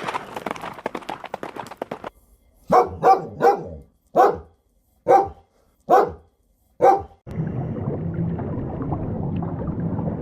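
A dog barking seven times in short single barks, the first three in quick succession and the rest about a second apart. A steady low rumble follows from about seven seconds in.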